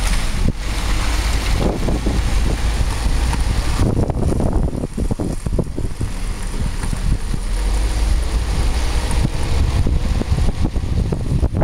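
Wind buffeting the microphone: a steady low rumble broken by irregular thumps.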